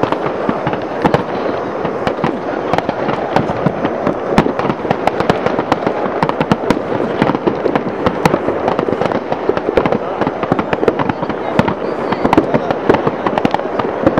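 Dense, unbroken barrage of fireworks and firecrackers: overlapping bangs and crackles, several sharp reports a second.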